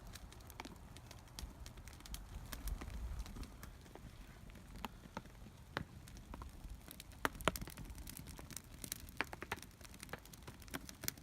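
Wood fire crackling with irregular sharp pops, over a low rumble of wind.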